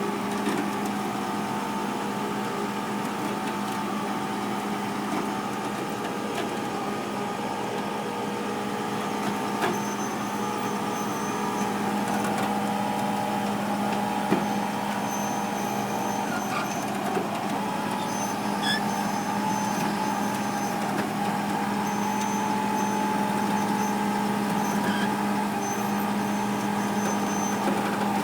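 Tow truck running steadily with a constant low hum as a pickup is loaded onto it. Faint short high-pitched tones come and go from about ten seconds in.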